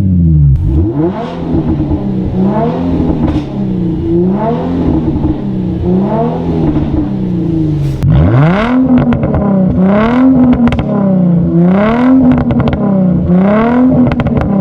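Infiniti G35's 3.5-litre V6 through a muffler-deleted exhaust, revved again and again, its pitch rising and falling in repeated swells; it gets louder with a sharp rise about eight seconds in.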